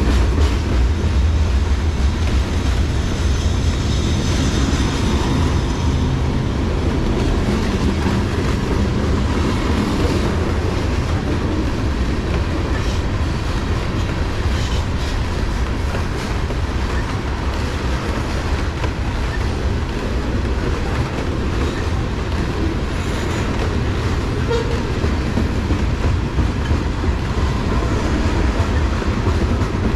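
Freight train of tank cars rolling past, a steady low rumble of steel wheels on the rails.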